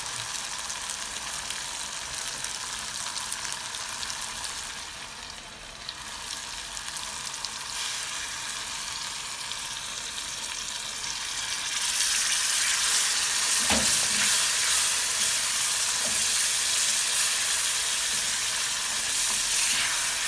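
Liver pieces deep-frying in hot oil with onions and peppers in a metal pot: a steady sizzle. It dips briefly a quarter of the way in and turns louder past the middle, with a single short knock about two-thirds through.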